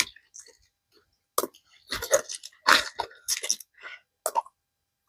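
Crisp collard green leaves crackling and crunching as they are snapped off and handled, in a run of irregular sharp crackles.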